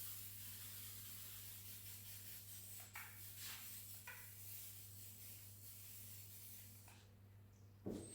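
Rag wiping over the van's painted metal back door: a faint steady rubbing hiss with a few louder strokes. This is the wipe-down that clears sanding dust and grease before painting.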